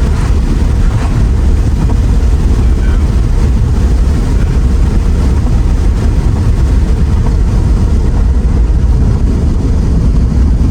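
Steady, loud road and wind rumble inside a Mercedes R129 SL500 while it is being driven.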